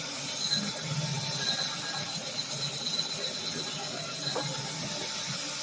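Drill running steadily, spinning a brake hone inside the rusty front fork tube of a 1972 Arctic Cat Ramrod minibike to scour out the rust. The hone chatters where the rust narrows the tube.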